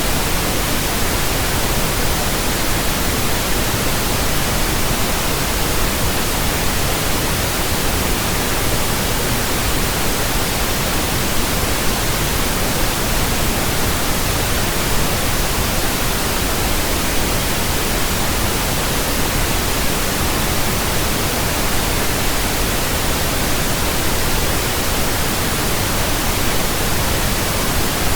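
Steady, loud pink noise from a pink noise generator, an even, unchanging hiss across the whole range of pitch. It is a burn-in signal for breaking in new speakers, headphones and earphones.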